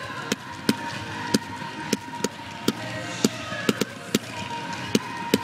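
Fireworks launching at close range in rapid succession: sharp pops, roughly two to three a second at uneven spacing.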